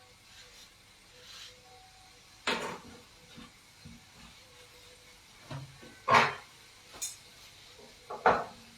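Four sharp knocks with quiet gaps between them: kitchen utensils or cookware being set down or struck during cooking.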